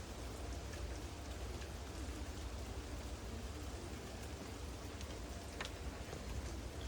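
Steady rain falling during a thunderstorm, with a few sharp ticks of single drops, one clearer tick about five and a half seconds in, over a low rumble.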